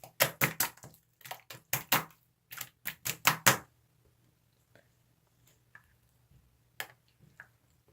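Slime being squeezed and poked by hand: a quick run of sharp clicks and pops for about three and a half seconds, then only a few scattered faint clicks.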